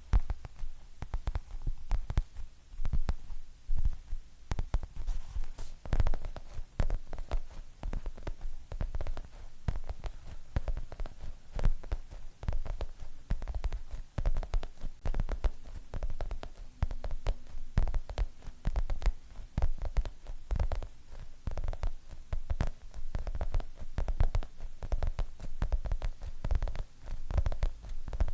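Fingernails tapping quickly on hard objects for ASMR: a dense, irregular run of close-miked taps, several a second, each with a deep thud under the click.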